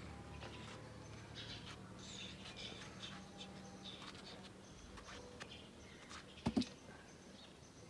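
Faint bird chirps, short and scattered, with a soft knock about six and a half seconds in.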